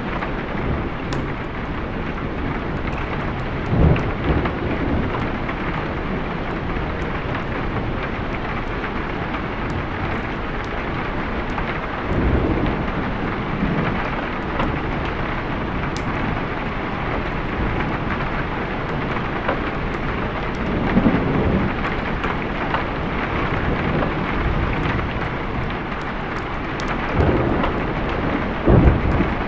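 Steady heavy rain with low rumbles of thunder swelling up four times: about four seconds in, around twelve seconds, around twenty-one seconds and near the end.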